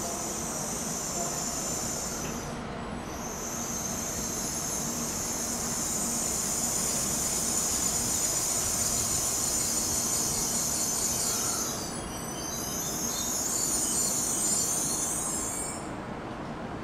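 N700-series Shinkansen train braking into the platform: a steady rumble under a high-pitched squeal, which drops out briefly twice and stops as the train halts near the end.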